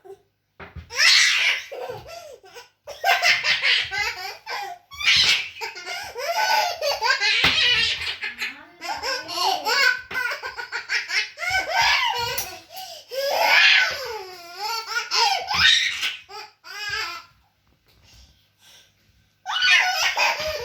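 A small child laughing hard, in repeated bursts of high-pitched belly laughter with a short pause near the end.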